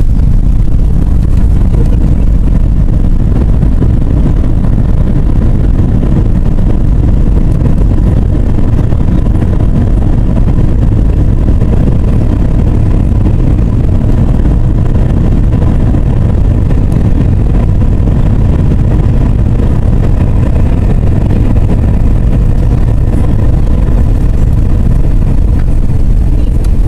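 Airbus A320 cabin noise: a loud, steady low rumble of jet engines and airflow, with a faint steady whine over it.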